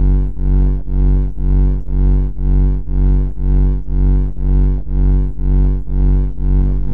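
A loud, harsh low buzzing tone that pulses on and off about twice a second, changing to a steadier buzz at the very end.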